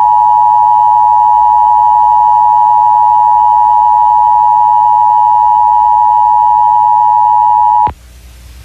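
Emergency Alert System attention signal: a loud, steady two-tone alarm near 1 kHz, held for about eight seconds and then cutting off abruptly. It announces a severe thunderstorm warning.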